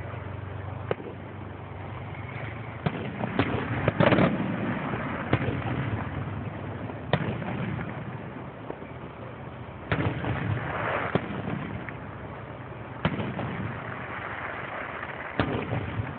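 Fireworks going off: about ten separate bangs at uneven intervals, the loudest about four seconds in, with stretches of crackling after the bangs near the ten- and fourteen-second marks.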